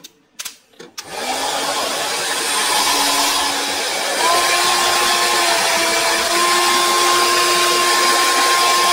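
Hair dryer clicked on about a second in, running with a steady rush of air and a motor whine; about four seconds in it steps up to a higher, louder speed. Its motor has just been greased and the hair wound around the fan removed, and it now runs differently.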